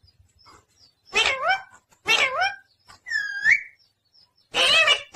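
Pet parrot giving a series of four short, loud squawking calls, each sliding down and up in pitch, the third a clearer whistle-like swoop.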